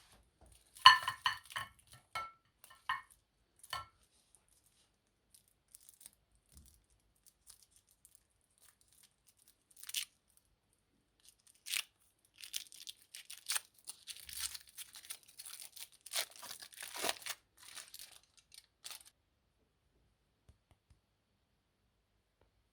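Foil wrappers on colorful umbrella-shaped chocolates being crinkled and torn off in short spurts, after a handful of light clinks and taps in the first four seconds.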